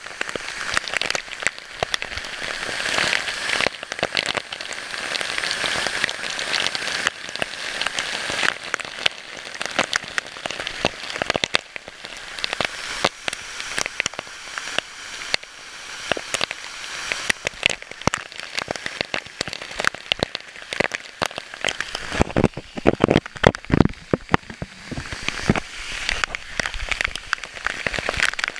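Water spattering in dense, irregular droplet hits over a steady rush of falling water from the waterfall. Near the end come a few low thumps.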